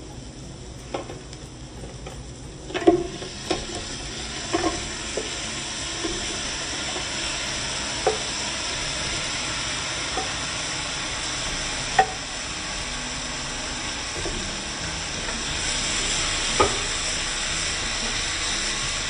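Frozen raw shrimp hitting hot oil in a sauté pan of onions, setting off loud sizzling about three seconds in that swells again near the end. A few sharp knocks stand out as the shrimp land and a wooden spoon stirs them against the pan.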